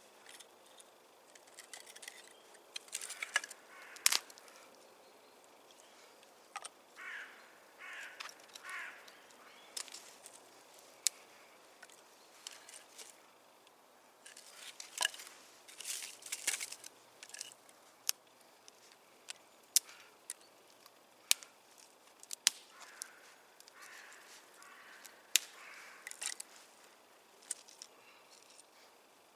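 Dry twigs and sticks snapping and rustling as kindling is handled and broken: sharp, irregular cracks, several of them loud, with softer rustling between.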